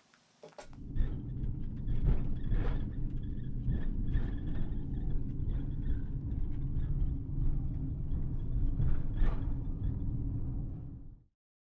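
Low, steady rumble of a van on the move, starting about half a second in and cutting off abruptly shortly before the end.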